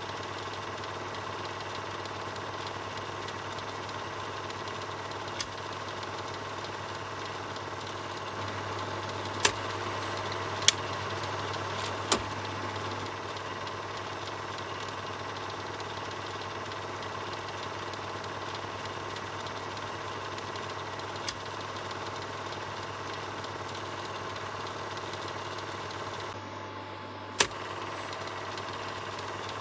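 Film projector running steadily: an even mechanical whirr over a low hum, with a few sharp clicks scattered through it, one loud click near the end just after a brief drop in level.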